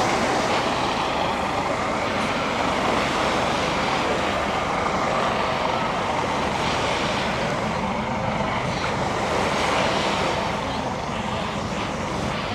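Steady outdoor noise on a busy beach: a constant rush with faint voices mixed in.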